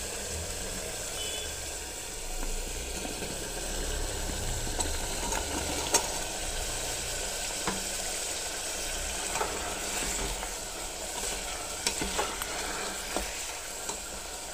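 Minced meat, peas and potato chunks sizzling as they fry in an open pressure cooker, stirred with a metal ladle that clicks and scrapes against the pot now and then. The sharpest knock comes about six seconds in.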